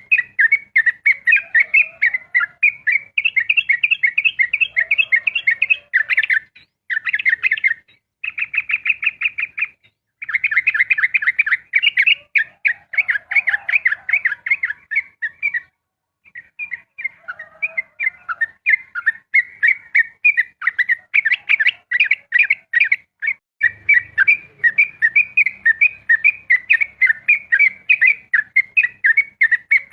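Yellow-vented bulbul (trucukan) singing a long 'ropel' song: fast runs of bright chattering notes repeated several times a second, with a few short breaks around a third of the way in and near the middle.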